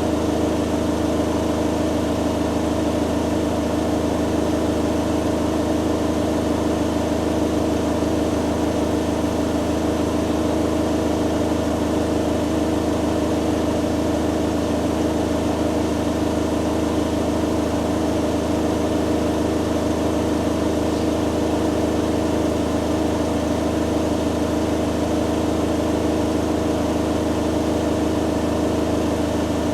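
Two washing machines, a Hoover Dynamic Next DXA610IW3 and a Beko Pro AquaTech WX94044EO, spinning together: a steady, even motor-and-drum hum with several steady tones, unchanging in pitch and level.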